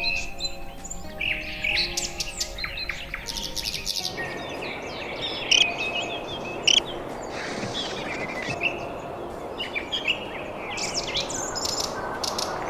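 Birds chirping and twittering in many short, quick calls. Soft sustained music tones sit underneath for the first few seconds, and a steady hiss takes over from about a third of the way in.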